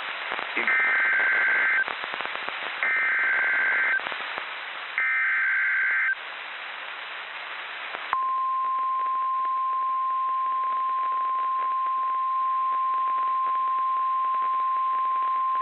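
NOAA Weather Radio emergency alert signal over radio hiss. First come three short, harsh, warbling bursts of the SAME digital header, about a second each and about a second apart. Then the steady 1050 Hz warning alarm tone starts and holds, the signal that wakes weather radios for a warning, here a severe thunderstorm warning.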